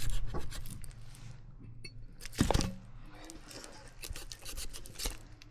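Irregular crunching and scraping, a run of short clicks with one louder knock about two and a half seconds in.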